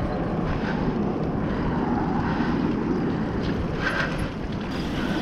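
Wind rumbling steadily on the microphone of a moving bicycle, with rolling noise from the ride underneath.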